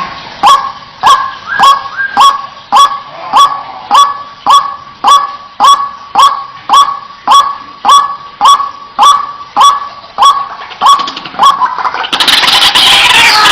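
White-breasted waterhen calling: a harsh, honking note repeated steadily about twice a second. About a second and a half before the end it abruptly gives way to a louder, denser din of many overlapping calls.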